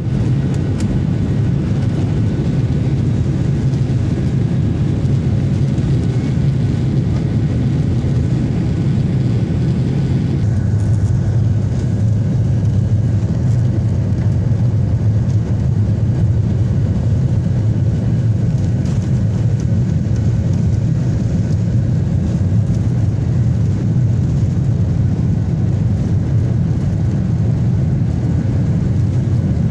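Passenger airliner cabin in flight: a steady, even low drone of engine and air noise.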